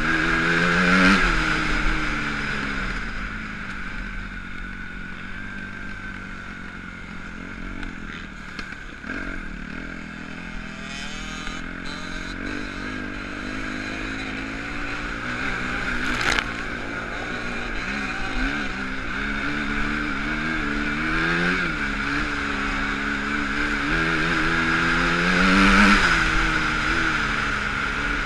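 Motocross dirt bike engines revving up and falling back again and again, loudest about a second in and near the end, with a single sharp crack around the middle.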